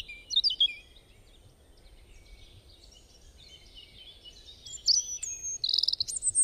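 Small birds chirping in quick, high notes: a few calls at the start, a lull, then a busier run of chirps from about five seconds in.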